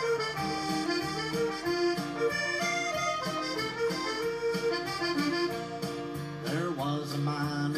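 Accordion playing a lively traditional tune over a steady rhythmic backing, as background music.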